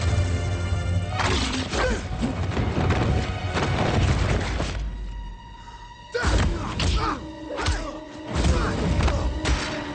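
Action-film soundtrack: score music under a run of hits, thuds and crashes. It drops quieter for about a second past the middle, then a sudden loud hit starts a fresh run of impacts.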